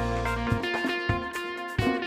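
A live band playing: guitar over bass and drums, with sharp drum hits about every half second.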